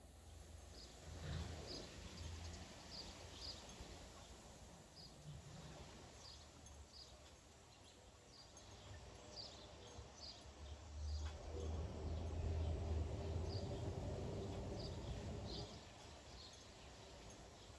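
Gusty wind rumbling in swells, a short gust near the start and a longer, stronger one in the second half, while small birds give short high chirps over and over.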